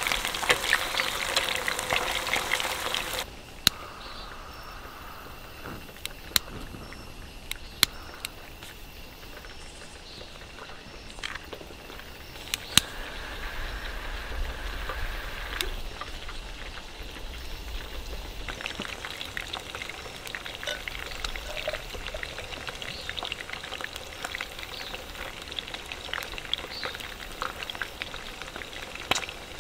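Chicken wings frying in hot oil, a dense sizzling crackle with scattered sharp pops. It is loud for the first three seconds, drops suddenly to a quieter sizzle, and grows denser again in the second half.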